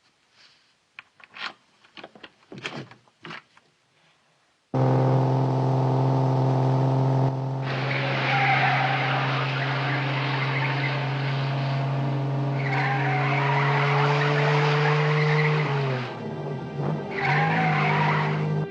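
Car driving at speed, its engine holding a steady note over tyre and road noise with tyre squeal. The engine note starts abruptly about five seconds in, and dips briefly before picking up again near the end. Before the engine comes in there are a few faint clicks.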